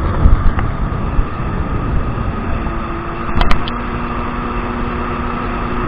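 Kawasaki 1200 jet ski under way: steady engine drone mixed with the rush of water and wind, with a steady engine tone settling in about halfway and a few sharp knocks just after.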